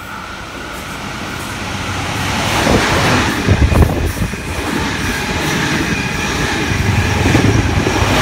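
NSW TrainLink XPT diesel express passing through at speed on the near track. The noise builds as it approaches and is loudest as the leading power car goes by about three and a half seconds in. Then comes the steady running noise and wheel clatter of the carriages, swelling again near the end as the rear power car passes.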